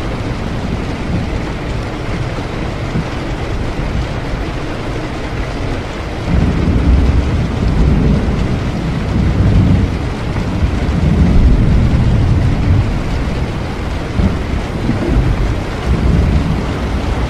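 Steady heavy rain. About six seconds in, a deep rolling rumble of thunder comes in and swells several times before easing back toward the end.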